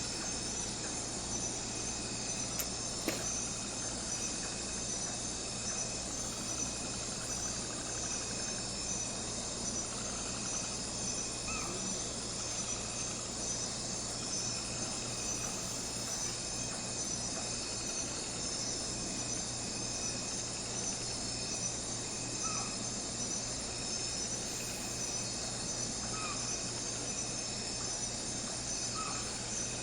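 Crickets and other insects chirping steadily in a dusk chorus: a high trill pulsing at an even pace, over a steady low hum, with a few faint short calls here and there.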